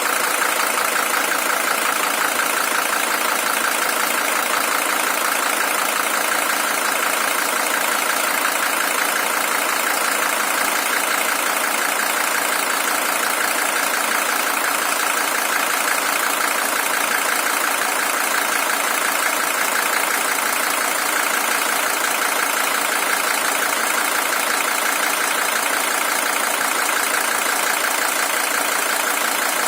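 Mercedes-Benz OM617 five-cylinder diesel engine in a W123 300TD idling steadily, an original engine with 620,000 km on it.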